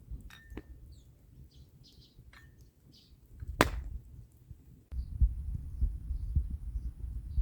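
Outdoor nature ambience: faint short bird chirps over a low rumble of wind on the microphone, with one sharp click about three and a half seconds in. After about five seconds the rumble grows and a thin, steady high-pitched tone joins.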